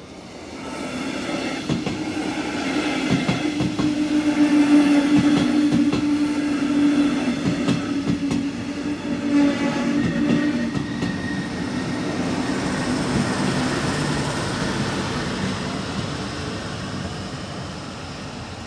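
Red DB double-deck regional train passing over a level crossing. The sound swells about a second in, with wheels clacking over the rail joints and a steady hum through the loudest part, then slowly fades as the train draws away near the end.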